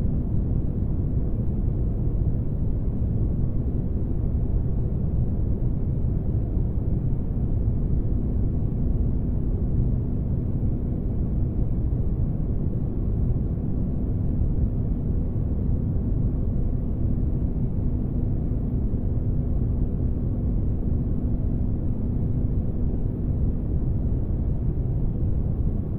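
Spaceship-interior ambience: a steady, unbroken low rumbling drone with a faint constant hum running through it, like a ship's engines heard from inside.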